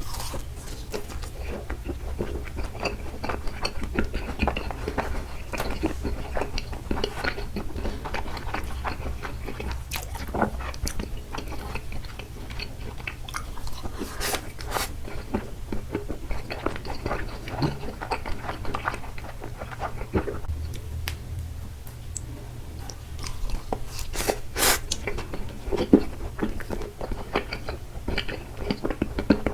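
Close-miked chewing and biting of takoyaki: irregular wet mouth smacks and small clicks throughout, over a steady low hum.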